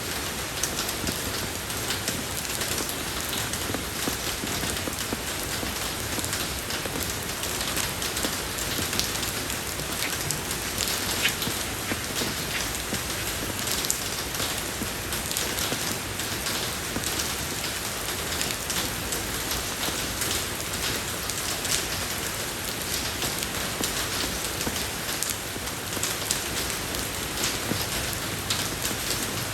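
Steady rain falling on a road surface, a dense even hiss with countless small drop patters.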